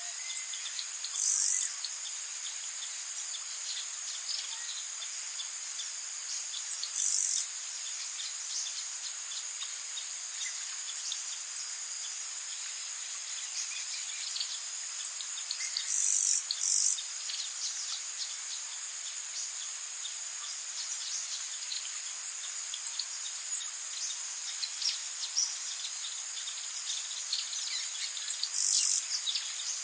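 Tropical rainforest ambience: a steady high-pitched drone of insects with rain pattering underneath, broken every several seconds by a short, loud, high call, six in all, two of them close together about halfway through.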